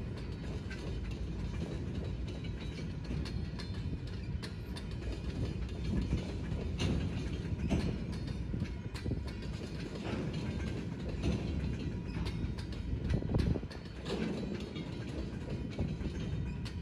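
Freight train of empty centerbeam flatcars rolling past: a steady low rumble of wheels on rail with irregular clanks and clicks.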